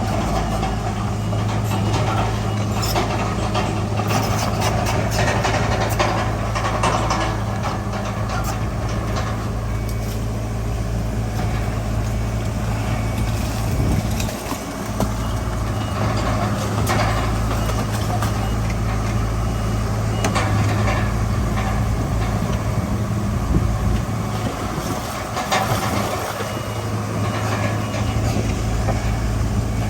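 Heavy diesel engines of earthmoving machinery running steadily, with scattered metallic clanks and a faint, repeated reversing beep.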